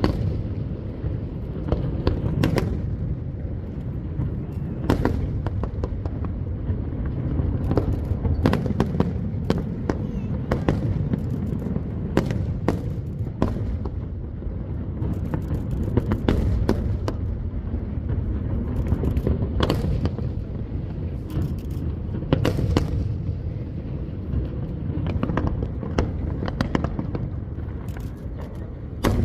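Aerial fireworks display going off: a continuous low rumble of bursts, with many sharp cracks and bangs coming in quick, irregular succession.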